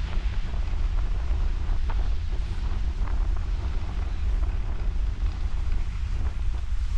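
Wind buffeting the microphone with a steady low rumble, over the hiss of ocean surf.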